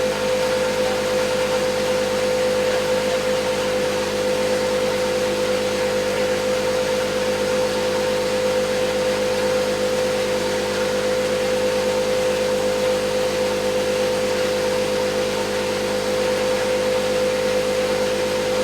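A machine running steadily, giving a constant droning hum with an even rushing noise over it.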